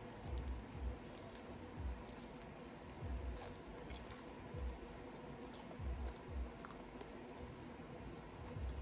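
A person chewing and biting barbecue chicken, close to the microphone: irregular soft chewing thumps with small mouth clicks.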